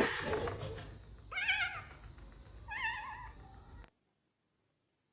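A cat meowing twice, about a second and a half apart, each a short wavering mew. The sound cuts off suddenly near the end.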